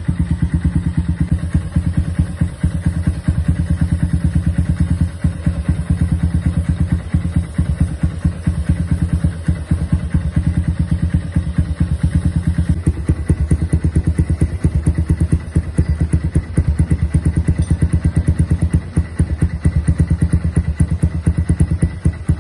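Kawasaki W175's single-cylinder engine idling steadily through a custom scrambler-style exhaust, with an even, rapid run of exhaust pulses.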